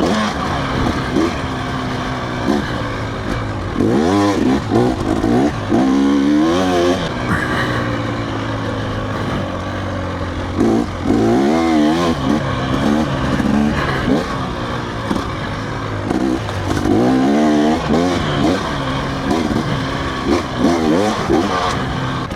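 Off-road motorcycle engine revving up and down again and again as the bike is ridden on a trail, its pitch rising and falling every few seconds.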